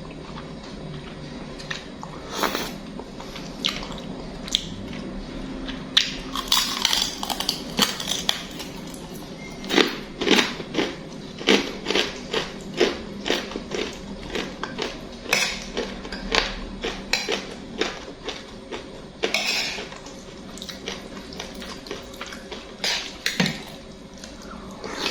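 Eating instant noodles close to the microphone: chewing and slurping, with a utensil clicking against the bowl. The clicks come in quick runs, densest in the middle.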